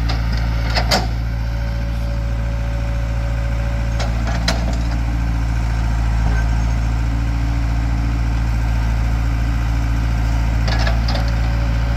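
Heavy engine running steadily at an even, low idle-like pitch, with a couple of sharp knocks about a second in and again a few seconds later.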